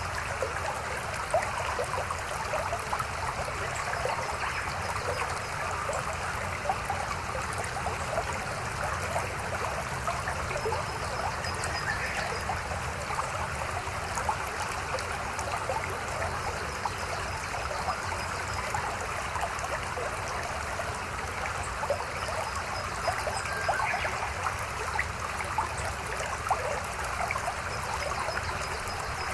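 Small stream murmuring and trickling steadily, an even rush of water with many small splashes and gurgles.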